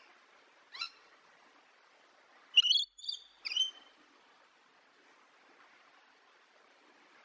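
Wild bird calling: one short chirp, then a quick run of three sharper chirps about two and a half to four seconds in, over a faint steady hiss of outdoor background.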